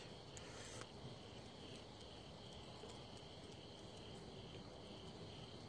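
Faint insect chirping, a regular pulse about three times a second, over low background hiss.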